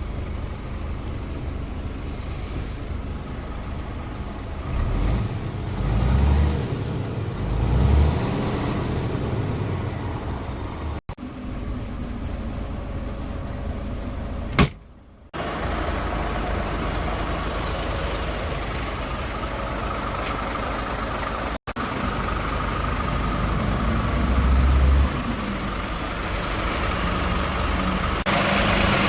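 Scania S500 truck's 13-litre straight-six diesel running, heard through several cut-together clips, with low swells in engine sound. A single sharp bang comes about halfway through.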